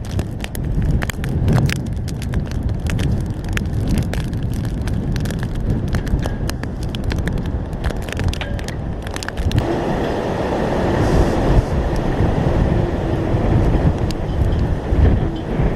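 Hurricane wind buffeting the microphone in a loud low rumble, with rapid crackling ticks, typical of rain striking it, for the first ten seconds or so. After that the crackle gives way to a steadier rushing hiss.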